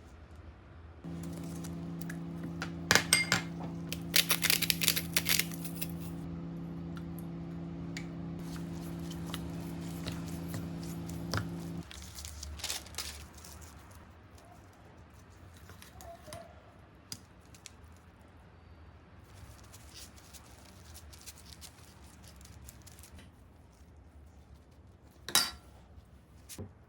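Kitchen food-preparation sounds. A kitchen appliance hums steadily for about ten seconds, then stops, while dishes and utensils clink and wrapping rustles. Quieter handling noises follow, with one sharp clink near the end.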